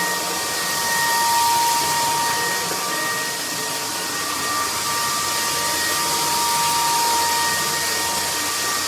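Bulelink cordless stick vacuum cleaner running: a steady rush of air with a high motor whine, cutting off suddenly at the end.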